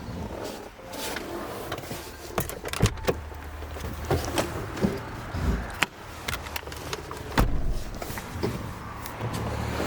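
Citroen C4 Grand Picasso being handled: a run of sharp clicks and knocks from its doors and fittings, with a low hum coming and going.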